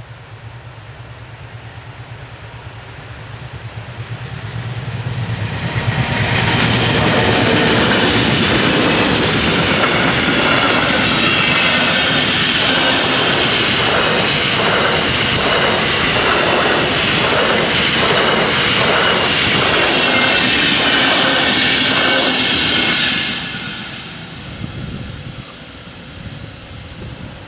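A train made up of NS ICNG-B unit 3303 and Railexperts 9903 passes over a level crossing at speed. It rises to a loud rush from about four to six seconds in, with a regular clatter of wheels over the rail joints, and the sound drops off sharply about 23 seconds in.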